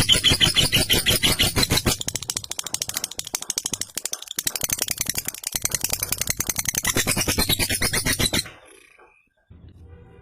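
Lovebird singing its long, rapid chattering 'ngekek' song: a fast, unbroken run of sharp notes that breaks off near the end.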